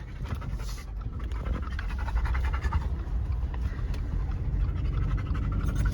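A dog panting in a moving car, over the low rumble of the car on the road.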